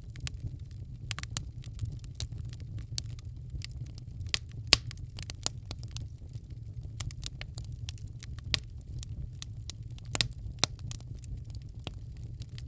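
Wood fire crackling in a fireplace: irregular sharp pops and snaps over a steady low rumble, the loudest pops about five and ten seconds in.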